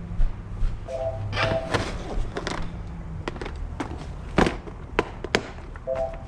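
Sharp clicks and knocks of tools and parts being handled in an engine bay, about half a dozen scattered through, over a low hum that fades out about three seconds in. A brief two-note tone sounds twice, about a second in and near the end.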